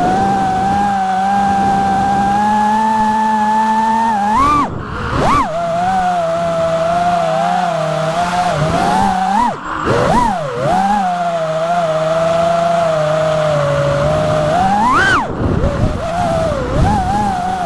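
FPV freestyle quadcopter's brushless motors and propellers whining steadily, with sharp swoops up and down in pitch as the throttle is punched and chopped, about four to five seconds in, around ten seconds and again near fifteen seconds.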